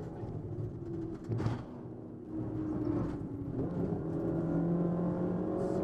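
Rally-prepared Ford Fiesta's engine heard from inside the cabin at stage speed. There is a short sharp noise about a second and a half in. The revs then ease off briefly and pull back up, and it runs on strongly.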